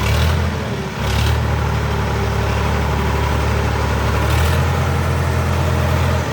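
Sonalika RX60 tractor's diesel engine running steadily at low revs. Its note shifts slightly about a second in and again at about four and a half seconds.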